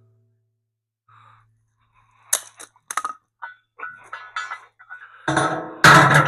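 Steel parts knocking and clinking as a bolt-on grab-hook plate is worked into place on a tractor's loader bucket. After a short quiet there are scattered light metal clicks, then a few loud metal bangs near the end.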